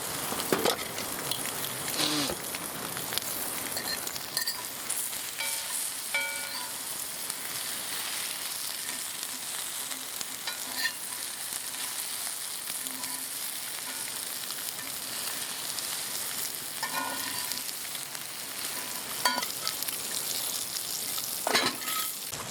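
Block of pork belly frying and sizzling steadily in a cast-iron skillet, with a few sharp pops scattered through.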